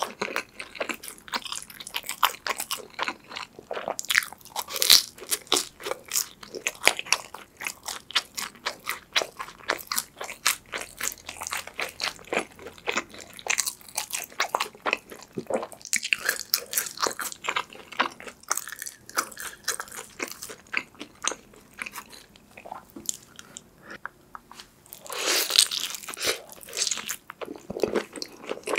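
Close-miked chewing and biting of Chicago-style deep-dish pepperoni pizza: a dense, continuous run of crunchy, sticky mouth clicks, with louder stretches around the middle and near the end.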